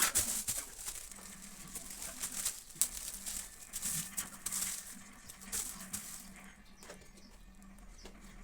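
Rustling and small irregular clicks and taps of craft materials being handled, over a faint steady low hum.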